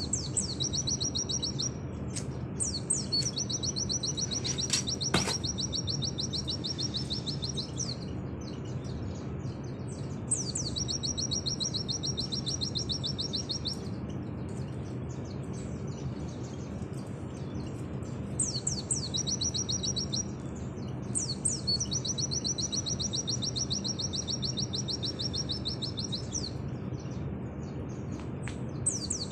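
Pleci (white-eye) singing in 'nembak' style: long, fast, even high trills, each running one to five seconds, in about six phrases with short pauses between. A steady low hum lies underneath.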